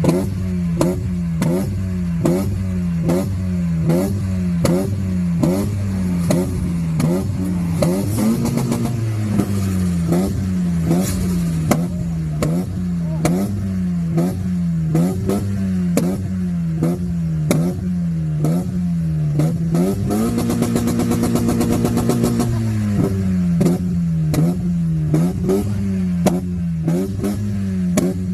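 Mazda MX-5 NB engine bashing its rev limiter: revs repeatedly dip and snap back up about once a second, with sharp exhaust pops and crackles. For a couple of seconds near the end it sits right on the limiter in a fast, even stutter.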